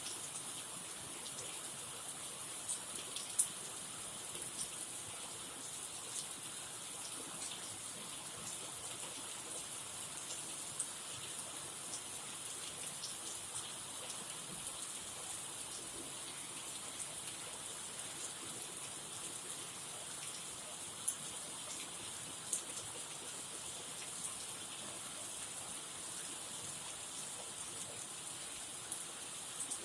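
Heavy rain falling steadily, an even hiss with scattered sharper drop hits, a few louder ones standing out.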